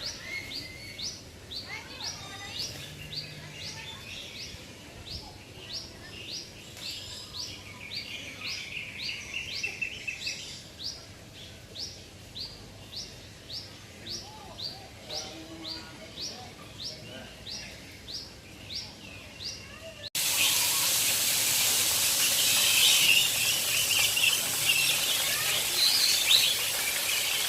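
Birds calling, one repeating a short, sharp falling note about twice a second, with a brief trill joining in about a third of the way through. About two-thirds of the way in the sound cuts abruptly to a much louder, even rushing noise.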